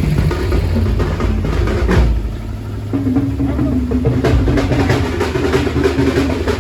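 Loud drum-heavy music with deep bass played through a DJ sound system; a steady low note comes in about three seconds in, with drum strokes over it.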